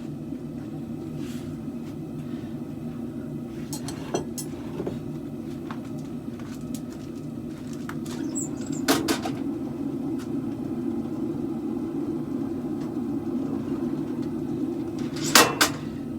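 A forge running with a steady low rushing noise, the blade heating in it. A few sharp metallic clinks sound over it: a pair about nine seconds in and a louder pair near the end.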